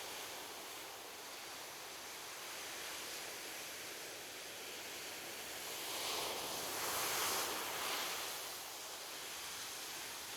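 Ocean surf washing on a beach: a steady hiss of waves, with one wave swelling up and breaking between about six and eight seconds in.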